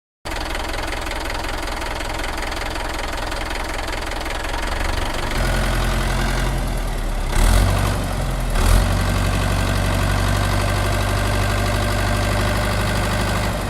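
An engine running steadily, heavier and deeper from about five seconds in, with two brief surges near the middle.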